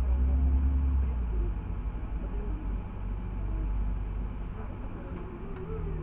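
Low rumble of a LiAZ 6213.65 articulated city bus heard from inside while riding, heaviest for about the first second and then easing off.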